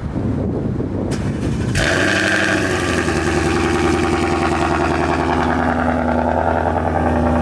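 Wind rumble on the microphone, then about two seconds in a vehicle engine comes in suddenly and runs steadily at an even pitch.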